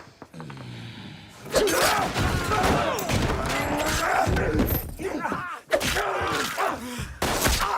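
Film fight-scene sound effects: a loud run of crashing, breaking glass and heavy thuds, starting about a second and a half in, with a short break near the middle.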